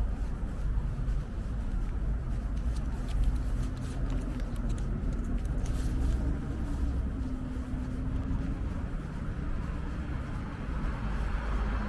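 Street traffic: motor vehicles passing with a steady low rumble, and an engine hum partway through. The traffic grows louder near the end.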